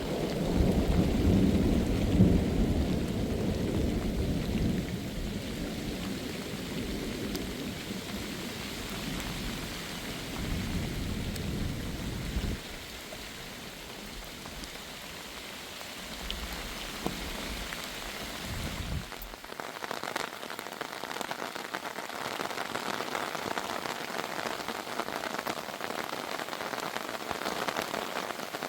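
Heavy rain with long rolling thunder, loudest at the start and dying away after about twelve seconds, with another low rumble a few seconds later. About two-thirds of the way through the rumble stops abruptly and only steady rain pattering remains.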